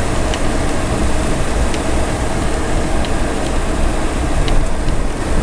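Vehicle driving, heard as a steady low rumble of engine and road noise, with a few faint clicks scattered through it.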